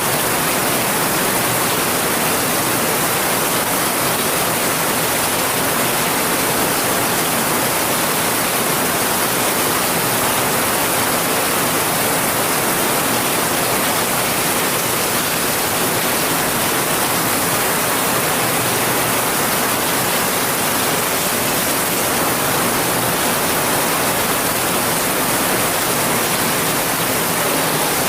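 Heavy rain falling in a dense, steady hiss, with no single drops standing out and no change in strength.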